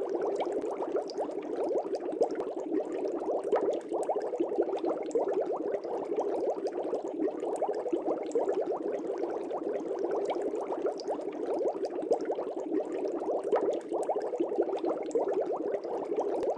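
Air bubbles bubbling steadily in a fish tank, a dense unbroken stream of small bubbles.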